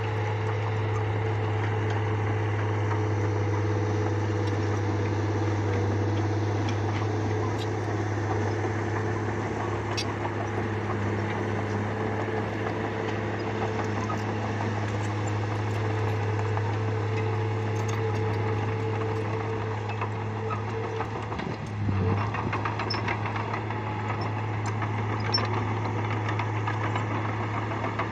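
Bulldozer's diesel engine running steadily at a constant low hum, its note dipping briefly and recovering about three-quarters of the way through, with faint scattered clicks and knocks.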